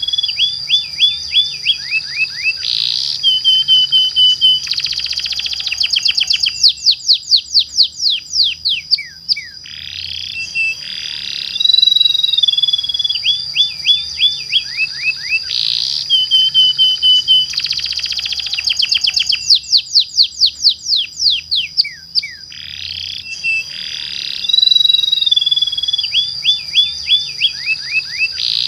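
Domestic canary singing a long, loud song of rapid rolls, trills and runs of quick sweeping whistled notes, with long held high notes between them. The same song sequence repeats about every twelve seconds.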